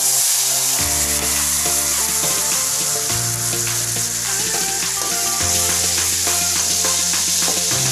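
Sliced garlic and shallots hitting hot oil in a steel wok, sizzling loudly from the moment they go in, then stirred with a ladle. Background music with a bass line plays underneath.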